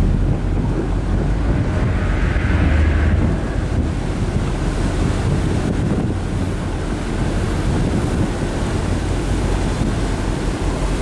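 Wind buffeting the microphone on a moving ferry, over the rush of water along the hull and a steady low rumble. There is a louder surge about two to three seconds in.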